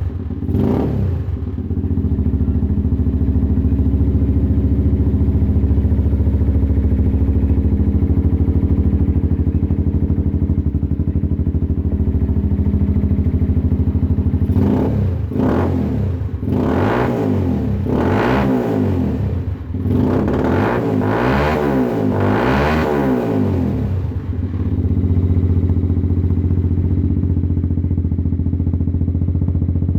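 Italika DM motorcycle's single-cylinder engine idling through an aftermarket exhaust. It is blipped once just after the start. From about halfway through comes a quick series of throttle blips, each rising and falling, before it settles back to a steady idle.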